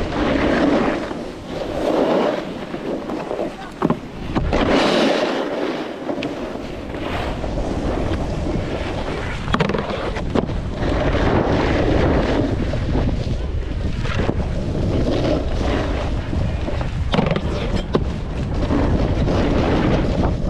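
Snowboard sliding and carving over snow, its base and edges hissing and scraping, with wind buffeting the microphone. There are a few short knocks.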